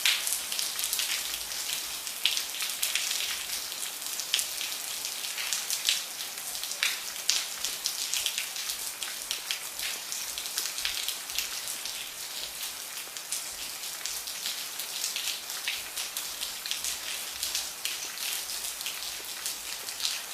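Rain falling steadily: a continuous hiss with many individual drops striking as sharp, irregular ticks.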